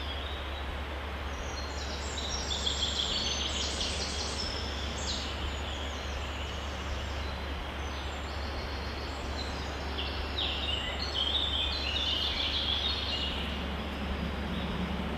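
Steady outdoor background noise with a low hum, and two spells of high chirping calls, about two seconds in and again about ten seconds in.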